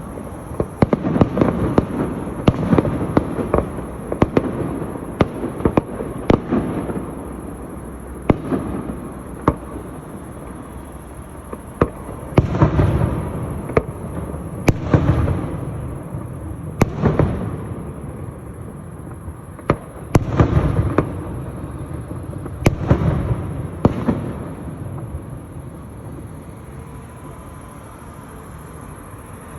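Fireworks display: a rapid run of sharp crackling reports for the first several seconds, then single heavier booms every two or three seconds that thin out near the end.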